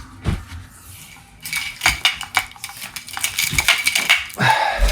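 Tangled charging cables being pulled apart by hand, their plastic plugs and connectors knocking together in a run of light clicks, rattles and rustling, with a dull thump near the end.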